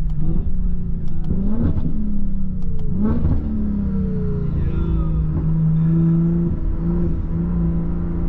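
Car engine revving up hard three times in quick succession, each sharp rise in pitch breaking off, then running at a steady pitch.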